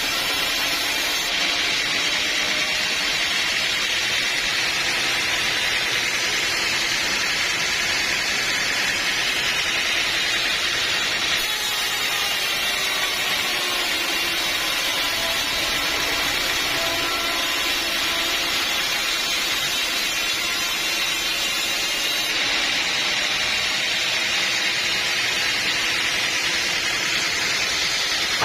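Sawmill saw and machinery running, a loud, steady machine noise without pauses.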